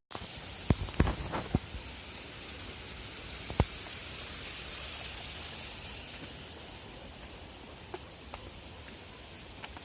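Rain falling steadily as a soft hiss, with a few sharp knocks in the first two seconds, one more a little later, and faint ticks near the end.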